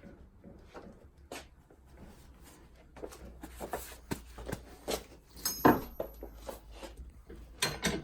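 Metal tools and parts being handled on a workbench: scattered clicks and clinks that grow busier partway through, the loudest a sharp metallic clank about five and a half seconds in with a brief high ring after it.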